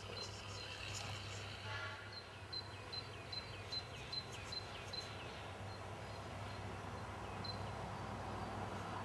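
A bird repeating a short high chirp with a falling slur, about three times a second for a few seconds, over a steady low hum and outdoor background noise.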